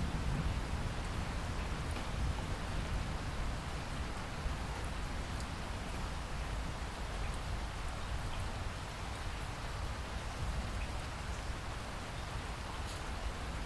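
Steady rain falling, with scattered individual drops ticking over an even hiss. A low rumble of distant thunder underneath eases off over the first couple of seconds.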